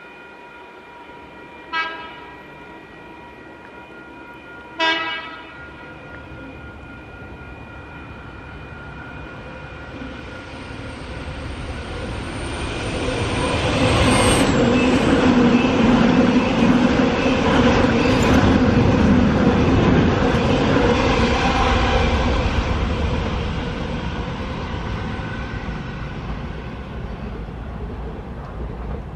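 Electric passenger train sounding two short horn toots, then running past along the platform: its wheel and rail noise builds, is loud for several seconds and fades away.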